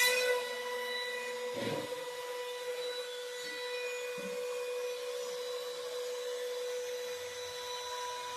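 Small hobby CNC machine running with a steady high whine, with a single knock about a second and a half in.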